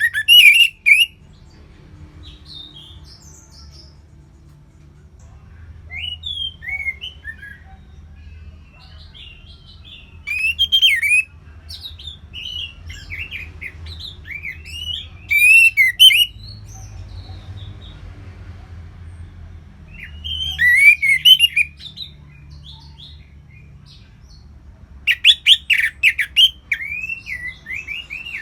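Orange-headed thrush (anis merah) singing: short bursts of varied whistled, warbling phrases every few seconds, several ending in fast, high twittering notes. A faint low hum runs underneath.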